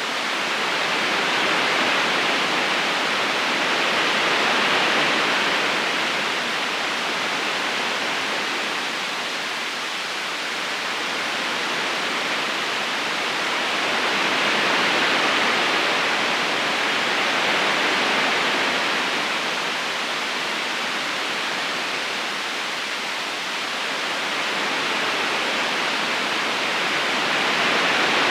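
Steady rushing of a river current running over stones, slowly swelling and easing in loudness every few seconds.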